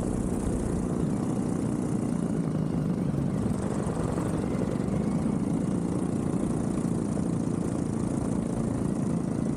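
Vittorazi Moster 185 paramotor's single-cylinder two-stroke engine and propeller running steadily at cruise power in flight, with wind hiss on the helmet camera's microphone.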